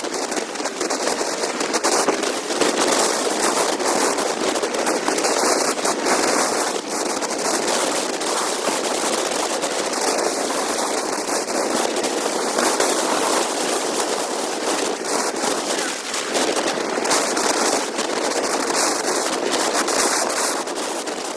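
Wind rushing and buffeting over the microphone of a camera on a moving motorcycle: a loud, dense crackling rush with no clear engine note.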